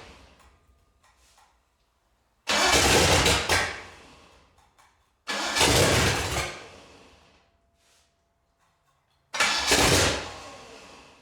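Ford 429 big-block V8 being cranked on its starter in three short start attempts. Each one comes in suddenly and fades out over a second or two without settling into a run. It is not firing properly, and a faulty carburetor is the trouble.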